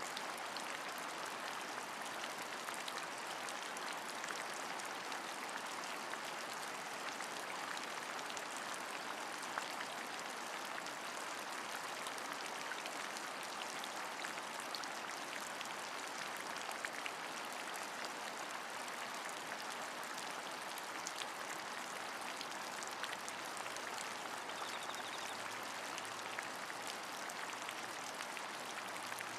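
Steady rain, an even hiss with many small drops pattering through it.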